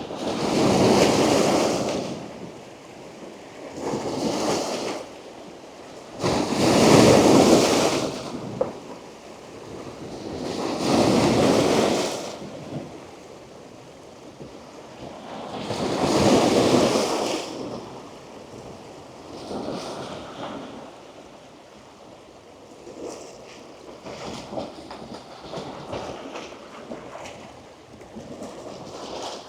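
Strong ocean surf breaking on rocks close to the waterline: five big crashing waves a few seconds apart, followed by smaller, uneven washes of water.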